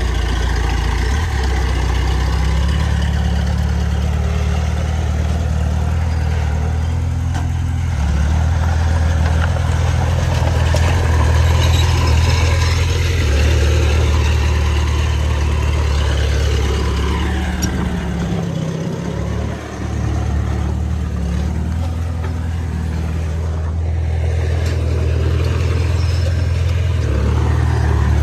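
Heavy diesel engine of earthmoving machinery running continuously, its note rising and falling with the load, with one brief dip about two-thirds of the way through.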